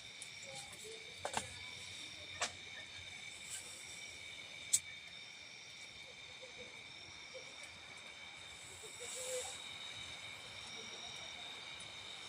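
Quiet pine-forest ambience: a steady high-pitched insect drone, with a few sharp clicks and a short hiss about nine seconds in.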